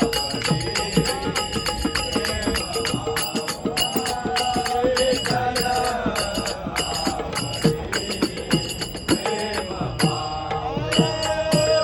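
Devotional bhajan music: voices singing over fast, steady hand-drum strokes and ringing hand cymbals.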